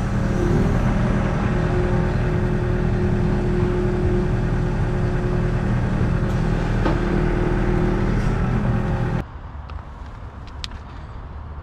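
A motor vehicle engine running steadily. It stops abruptly about nine seconds in, leaving a quieter background with a few clicks.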